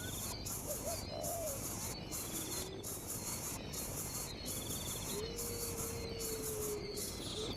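A dense insect chorus of crickets or cicadas, pulsing about twice a second. Over it come short buzzy trills and a few low bird calls, the longest a steady low whistle held for nearly two seconds about five seconds in.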